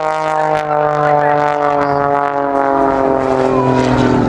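Pitts Special aerobatic biplane's piston engine and propeller droning past, the engine note sliding steadily lower in pitch as it goes by.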